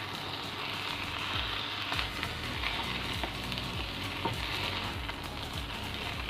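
Fried rice with noodles sizzling in a hot pan as it is stirred and tossed, with a steady hiss and a few brief clinks of the spatula against the pan.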